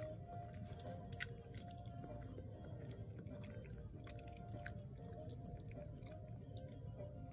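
A person chewing a mouthful of burger with dentures, wet chewing noises with small sharp clicks scattered through.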